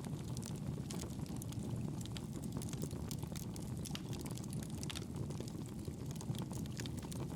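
Campfire burning: a steady low rush of flames with frequent small sharp crackles and pops from the burning wood.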